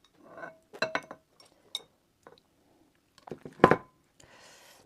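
Tableware clinking and knocking: several light clinks, some ringing briefly, then one louder knock with a short ring a little before the end, followed by a soft rustle.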